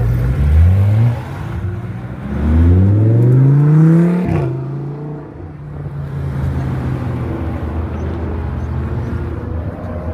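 A car engine accelerating hard. Its note rises twice, drops suddenly about four seconds in, then settles into a steady lower drone.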